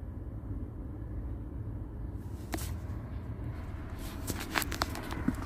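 The 2011 Chevrolet Tahoe's engine idling with a steady low hum, with a few light clicks and taps starting about halfway through.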